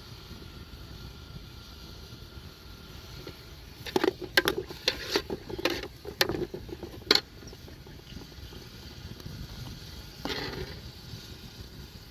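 A quick run of about eight sharp knocks and clatters lasting about three seconds, starting a third of the way in, over a steady low background noise. A softer scraping rustle follows near the end.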